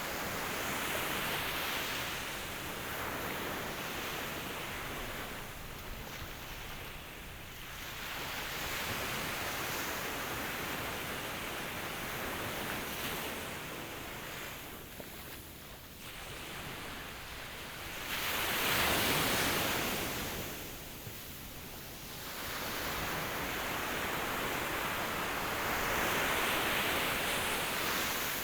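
Ocean waves washing in and out in slow swells, four surges about eight seconds apart, the loudest about two-thirds of the way through.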